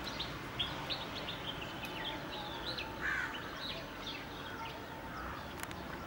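Birds chirping: a string of short, quick high notes, with a lower, louder call about three seconds in.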